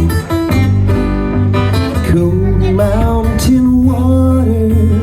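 Live acoustic guitar music from a folk duo: strummed acoustic guitar. In the second half a sliding melody line plays over it.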